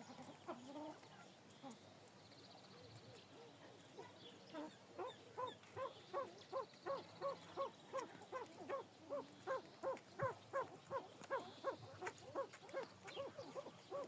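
Pheasants calling: faint scattered calls, then from about four seconds in a steady run of short clucking notes, about three a second.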